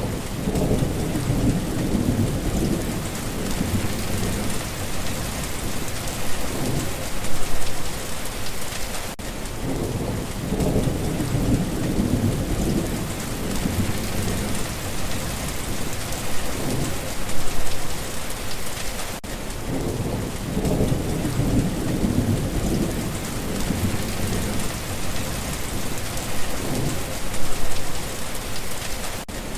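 Steady rain falling, with low rolling thunder rumbling under it. The rumbles swell and fade, peaking about every ten seconds.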